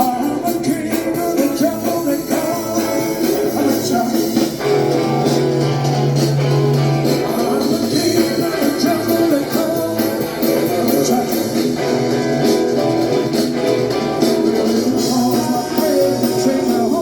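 Live rock-and-roll band playing a bluesy number led by guitar, with singing.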